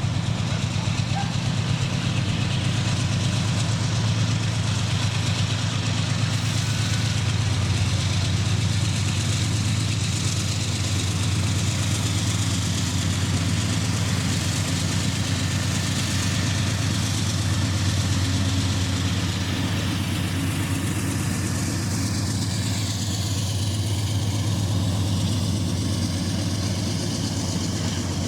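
Diesel freight locomotive engine running steadily with a deep, even throb.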